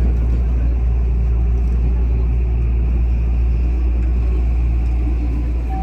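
JR Osaka Loop Line commuter train running, heard from inside the carriage as a steady low rumble with wheel and track noise.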